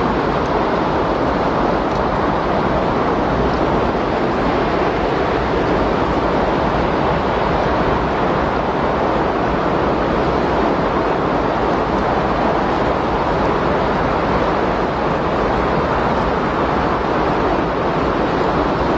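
Windstorm recording: steady rushing wind as an even, unbroken noise with no distinct gusts or pauses.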